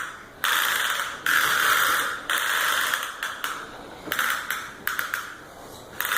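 Vacuum cleaner being pushed by a baby, its wheels and mechanism giving a ratcheting, clattering whir in repeated bursts about a second long with short gaps between.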